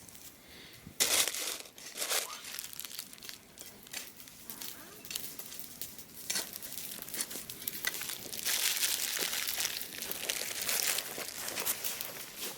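Rustling and crinkling handling noise in irregular bursts, with a sharp burst about a second in and a longer, denser stretch a little after the eight-second mark.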